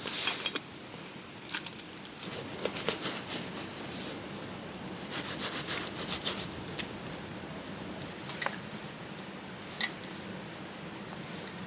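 Utensil scraping and scooping noodles out of a cooking pot while dishing up, in scattered strokes with a quick run of about six strokes a second midway and a few sharp clicks.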